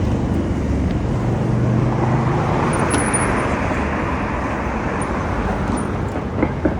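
Road traffic around a moving bicycle: car engines humming close by, a swell of noise about three seconds in as a vehicle goes past, and two short knocks near the end.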